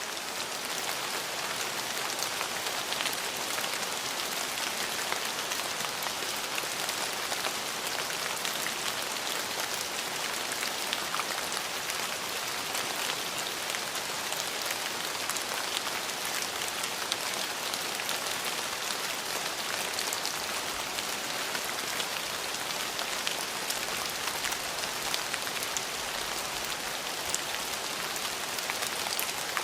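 Steady rain falling: an even hiss with many scattered raindrop taps.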